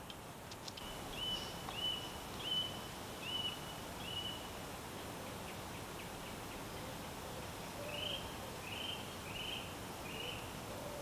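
Bird calling in a short series of about five evenly spaced high notes, then a second series of four broader notes a few seconds later, over a steady outdoor background hiss.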